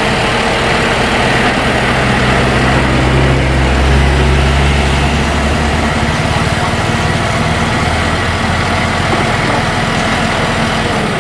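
Electronic engine-idling sound effect played by a toy car: a steady low rumble that swells in the middle and eases off toward the end.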